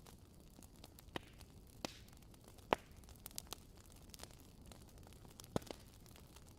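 Wood fire crackling, with a low steady hiss and scattered sharp pops and snaps. The loudest pops come about a third of the way in and again near the end.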